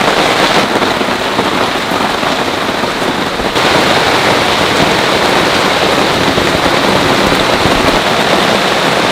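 Heavy rain falling steadily, a dense, loud hiss of drops.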